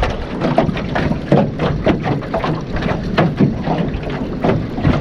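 Choppy water slapping against the hull of a small jon boat in irregular short splashes, several a second, over the low rumble of wind buffeting the microphone.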